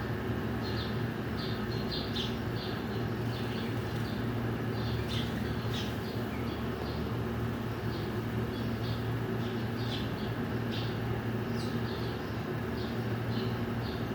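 A flock of small birds chirping continuously, many short high chirps overlapping, over a steady low hum.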